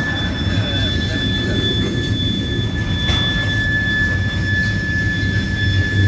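Freight train tank cars rolling past at a grade crossing: a steady rumble of steel wheels on the rails under a steady high-pitched wheel squeal. A single clack of wheels over a rail joint comes about halfway through.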